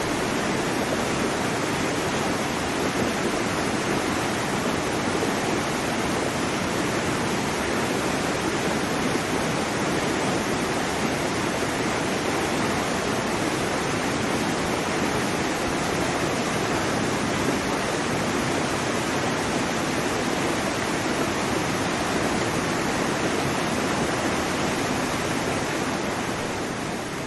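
Waterfall's rushing water, a steady, even rush that fades out near the end.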